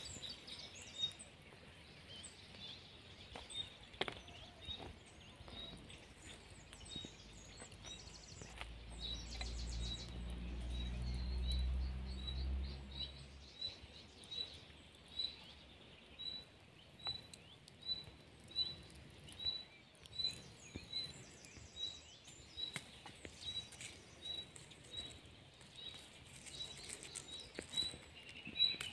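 A bird repeating a single short, high chirp at an even pace, about two a second, through the second half, more sparsely before. A low rumble rises for a few seconds in the middle, and there are a few faint clicks.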